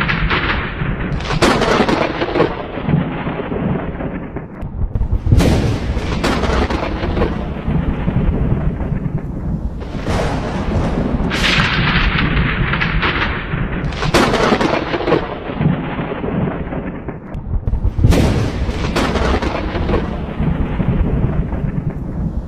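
Thunderstorm: thunder cracks every few seconds, each a sharp crash that rolls off into a long low rumble, over steady rain.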